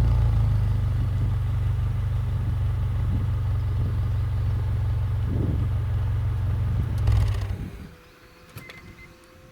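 Honda Accord engine with a Mugen sports exhaust and a TOP FUEL ZERO-1000 intake idling steadily, then switched off about seven and a half seconds in, leaving a few faint clicks.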